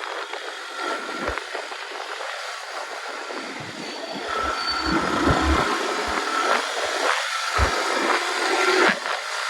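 Wind and road noise on a moving motorcycle, with a thin steady whine that comes and goes and a few knocks.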